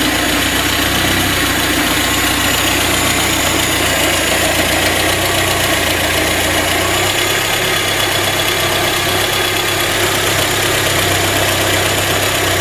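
A VAZ-21099's 1.5-litre carburettor four-cylinder engine idling steadily while its ignition timing is being set toward the first timing mark. Its deepest hum thins out about seven seconds in.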